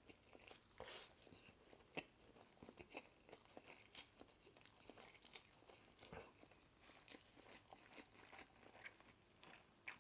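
Faint chewing and mouth smacking while eating: a string of irregular soft clicks and smacks.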